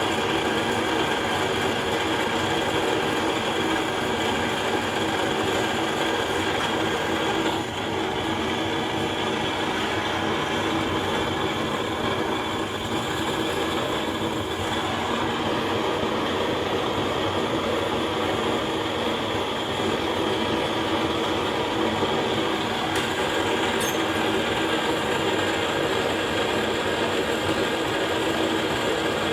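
Gas torch burner running with a steady roar, aimed at damp newspaper to get it burning.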